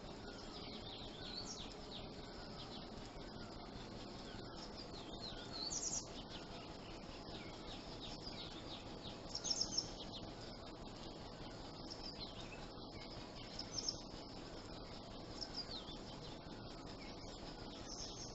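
Songbirds chirping: many short, quick, downward-sliding chirps and twitters, louder in bursts about six, nine and a half and fourteen seconds in, over a steady background hiss.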